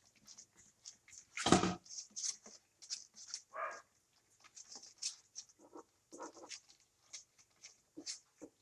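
Month-old puppies eating meat: a string of small wet smacking and clicking chewing sounds, with one louder thump about a second and a half in and a short whine a couple of seconds later.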